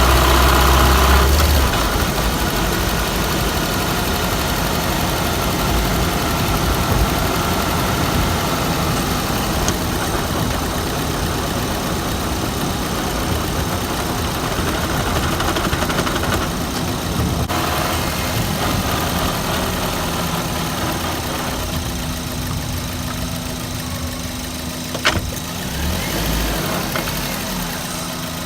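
Suzuki Swift's 1.3-litre engine and drivetrain running steadily, louder for the first second or two and easing slightly later, with a single sharp click about 25 seconds in.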